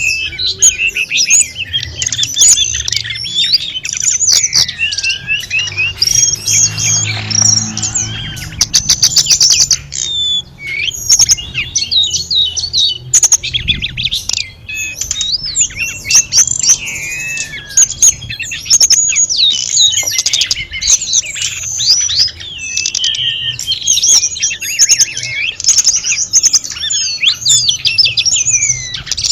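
Tledekan gunung singing a long, varied song: quick chirps, whistled glides and rapid trills follow one another without a break.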